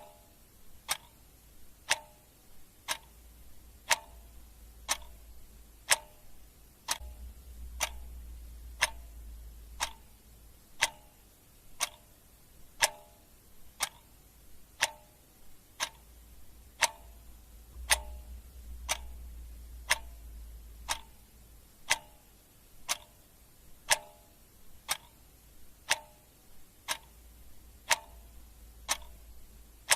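Clock ticking steadily at one tick a second, alternating a sharp tick with a slightly fuller tock.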